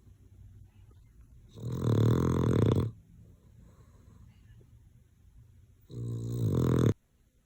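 Boston terrier snoring in its sleep: a loud snore lasting over a second about a second and a half in, then quiet breathing, then a second, shorter snore near the end that grows louder before cutting off.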